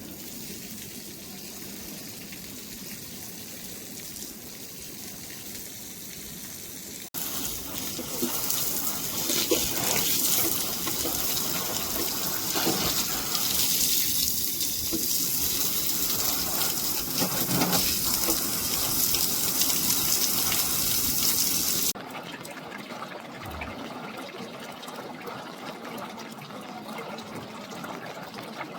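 Steady rushing water in the rain. It jumps suddenly to a much louder, fuller gush about a quarter of the way in and drops back to a quieter hiss about three quarters of the way through.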